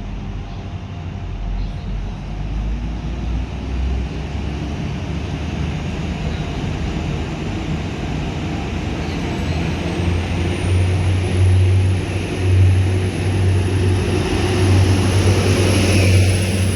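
Diesel multiple unit engine running at a station. Its low hum grows louder about two-thirds of the way in, and a thin high whine rises in pitch and then holds steady.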